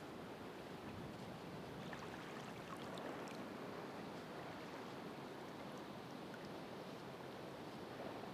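Ocean waves washing steadily on the shore in a continuous, even rush of surf, swelling slightly about three seconds in, with a few faint high ticks.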